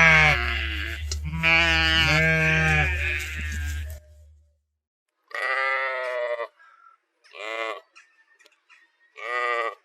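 Sheep bleating: several overlapping bleats over a low steady hum for about four seconds, then after a short gap three separate bleats with quiet between them.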